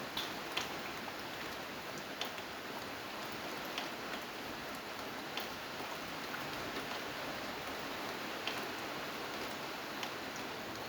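Steady rain falling, an even hiss, with about half a dozen sharper drip ticks scattered through it.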